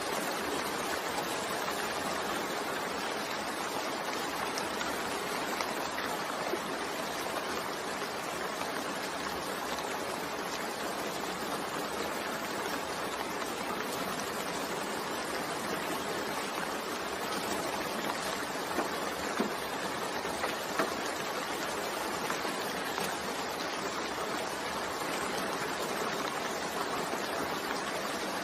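Steady rainfall, an even hiss of falling rain with a few faint drop ticks about two-thirds of the way through.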